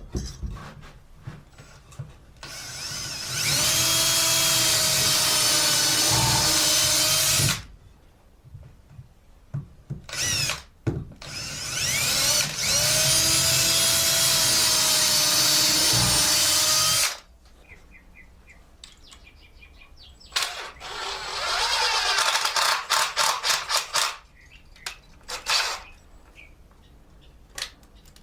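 Power drill running in two long pulls of about five seconds each, the motor whine dipping and recovering under load as it bores or drives into wood, then a string of short stop-start trigger bursts later on.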